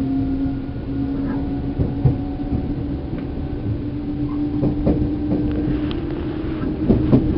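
Seibu New 2000 series electric motor car (MoHa 2291) running between stations, heard from inside the car. A steady whine from the traction motors and gears rises slightly in pitch over the low rumble of the wheels. Rail-joint clicks come more often near the end.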